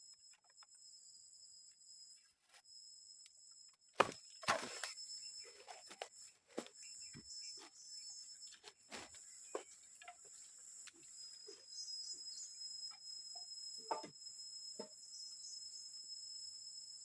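Steady high-pitched drone of forest insects, joined about four seconds in by irregular knocks, snaps and rustles of wood and bark being handled. The loudest are two sharp knocks close together at the start of that run.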